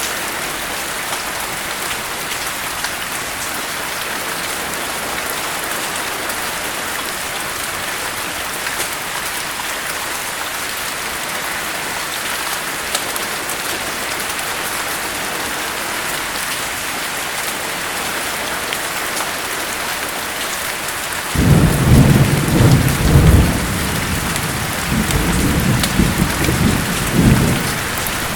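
Steady heavy rainfall, then about three quarters of the way through a sudden low thunder rumble that comes in two rolling waves and dies back under the rain.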